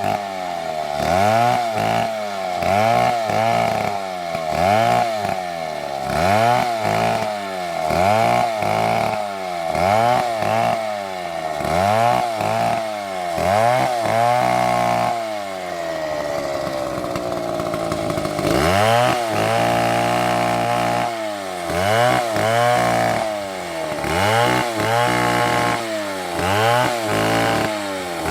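Chainsaw cutting wood, its engine note rising and falling about once a second. Around the middle the pitch drops slowly over a few seconds, then picks back up into the same rising-and-falling pattern.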